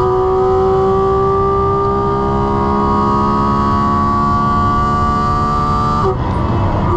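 Porsche 718 Cayman GT4 RS's 4.0-litre flat-six at full throttle, heard from inside the cabin. A gearshift right at the start drops the pitch, which then climbs slowly with speed. About six seconds in the steady note breaks off as the driver lifts for braking.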